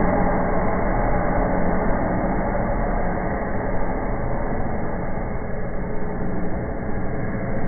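Steady buzzing rush of a burning indoor fountain firework, the 'bee volcano', easing slightly toward the end.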